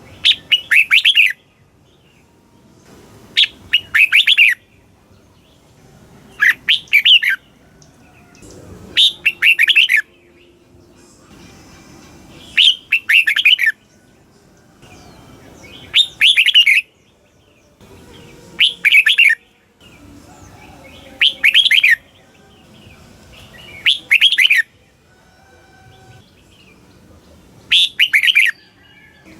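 Red-whiskered bulbul singing: short, bright, warbled phrases of about a second each, repeated about every two and a half to three seconds, ten times in all.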